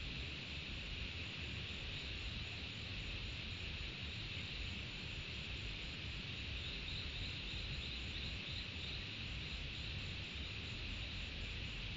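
Steady high insect chorus, with a short run of about seven quick high chirps a little past the middle.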